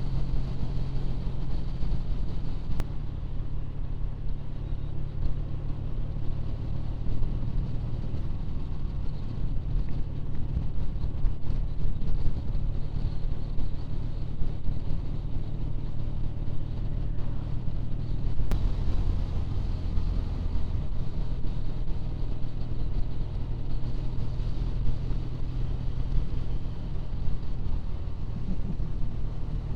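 Triumph Bonneville parallel-twin motorcycle engine running steadily while riding, over a continuous rushing noise. The engine note shifts twice, about three seconds in and again about eighteen seconds in.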